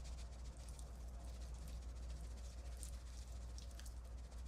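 Quiet room tone with a steady low hum and a few faint, light ticks.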